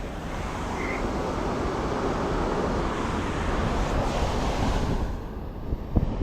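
Wind buffeting the microphone over a steady rushing of moving water, with a low rumble throughout; the hiss thins out about five seconds in and a couple of sharp knocks come near the end.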